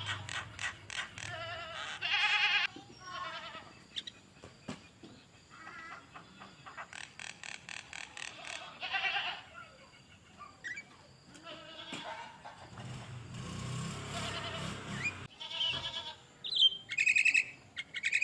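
Songbird singing a long, varied song of rapid trills, rattles and short pitched phrases, with brief pauses between runs.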